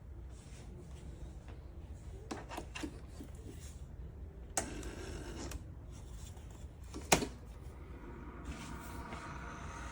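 Objects being handled: low rustling and rubbing, broken by a few sharp clicks and knocks. There are two light ones a little after two seconds in, one more in the middle, and the loudest about seven seconds in.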